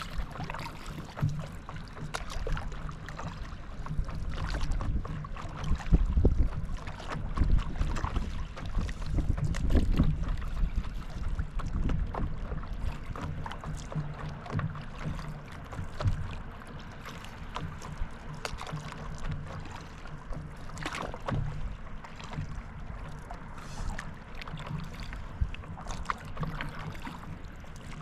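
Wind rumbling on the microphone over water splashing and lapping, with irregular paddle splashes, out on a lake on paddle boards.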